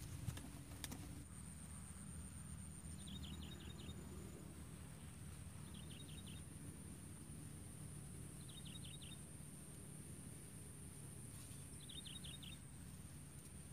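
A small bird calling faintly: a short, quick trill of about five high notes, given four times about every three seconds, over a steady high-pitched hiss and a low rumble.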